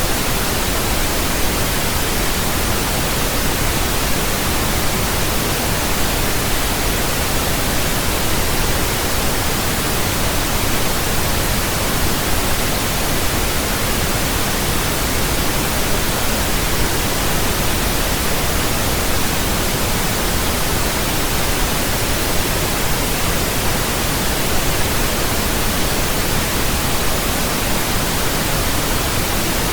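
Steady pink noise: an even, unchanging hiss spread across the whole range, deeper than white noise.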